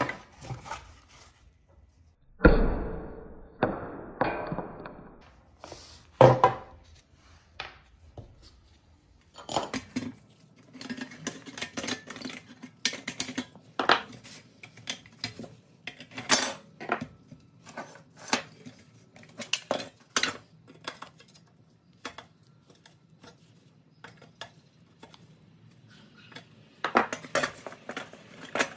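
Rusty pressed-steel Tonka toy truck parts clinking and knocking as they are handled and taken apart on a workbench. There is one heavy thump about two and a half seconds in, a few knocks after it, then a run of quick clicks and clinks from about ten seconds on.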